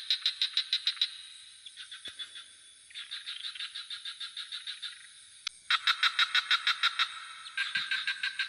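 A chorus of frogs calling in repeated bouts of rapid pulsed notes, about eight pulses a second, each bout lasting one to two seconds, with several frogs overlapping and the loudest bout a little past the middle. A steady high insect drone runs behind them.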